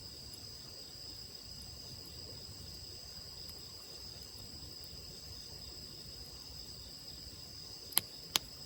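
Insects chirring in a steady high drone, with two sharp pops from a wood campfire near the end, about half a second apart.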